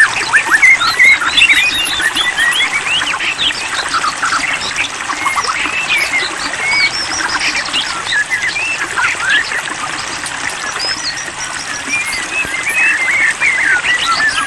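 White-rumped shama birdsong: a continuous, dense run of quick, clear chirps and short whistled notes that overlap one another, as played to prompt caged shamas to sing.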